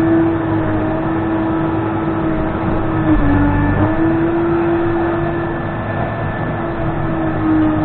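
Case 580N backhoe's diesel engine running steadily as the machine works. Its pitch sags briefly about three seconds in, as if under load, then recovers.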